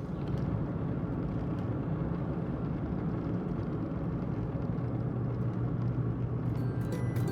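Steady engine and road noise of a car driving, low and even.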